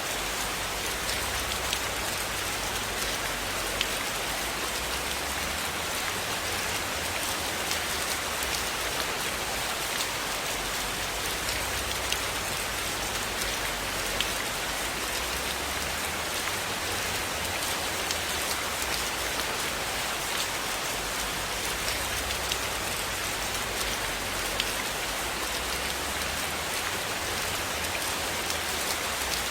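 Steady rain falling: an even hiss with scattered sharp ticks of drops.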